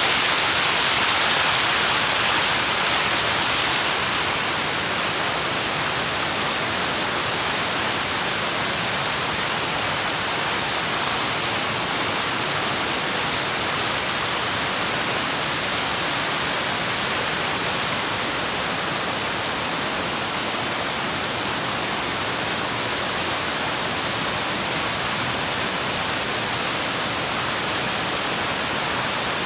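Waterfall rushing: a steady hiss of falling water with no pauses, slightly louder for the first few seconds.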